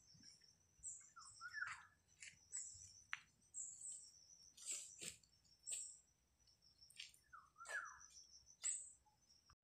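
Faint birds chirping: short high chirps every half second or so, with a lower, falling call twice.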